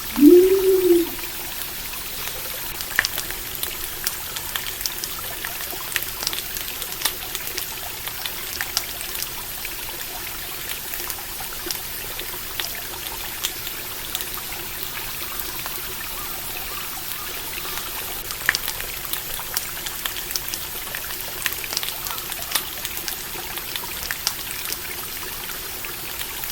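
Stream water trickling steadily, with a campfire crackling and popping in sharp scattered clicks. In the first second a single short call rises and falls in pitch.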